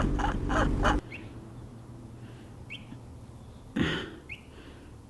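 Motorcycle engine running, then shut off abruptly about a second in. A few short, high, rising chirps follow, and there is a brief thump a little before the end.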